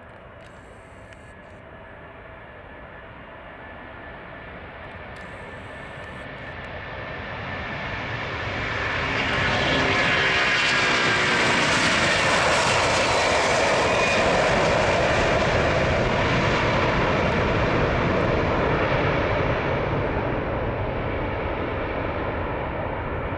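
Airbus A330-243 airliner with Rolls-Royce Trent 700 engines at takeoff power, growing steadily louder as it approaches along the runway, loudest through the middle with a falling pitch as it passes, then easing off slightly near the end.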